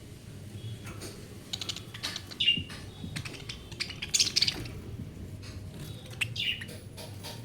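Budgerigars chirping and warbling in a few short bursts, the loudest about four seconds in, among light clicking and tapping.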